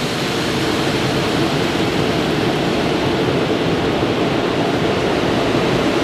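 Automatic car wash water jets spraying onto the car, heard from inside the cabin as a steady, even rushing hiss.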